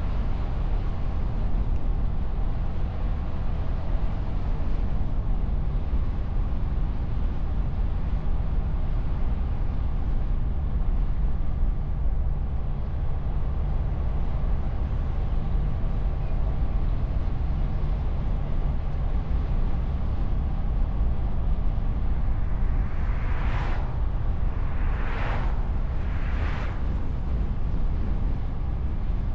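Steady low rumble of wind and road noise from a car driving along, heard through a bonnet-mounted camera's wind-muffled microphone. Near the end, three short whooshes come about a second and a half apart.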